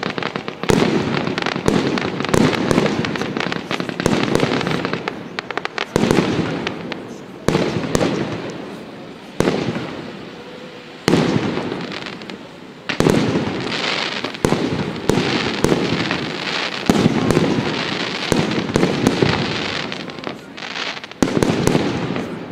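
Aerial fireworks display: shells bursting with a sharp bang every one to two seconds, each trailing off in crackling as it dies away.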